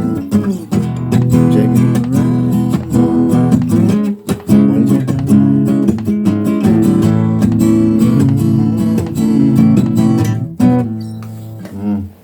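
Acoustic guitar strummed steadily through chords, an instrumental stretch of a song, thinning out near the end.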